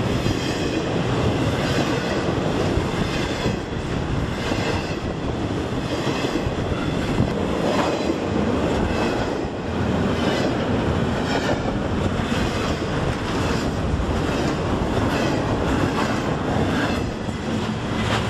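Freight train cars, double-stack container cars and then open hoppers, rolling past close by: a steady rumble of steel wheels on rail with repeated clacks throughout.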